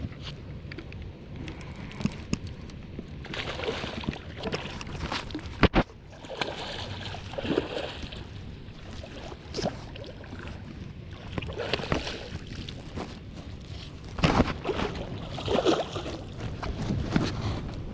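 Water sloshing and splashing around a boat while a hooked catfish is fought, with scattered clicks and one sharp knock about six seconds in.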